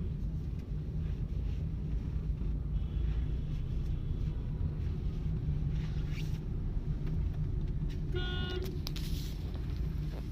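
Steady low rumble of a moving vehicle on a town road, with a short horn toot about eight seconds in.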